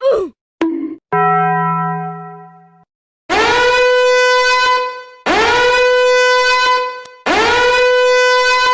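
A string of comic sound effects: a quick falling glide, a short blip and a fading tone, then three long horn-like blasts, each bending up into one steady pitch.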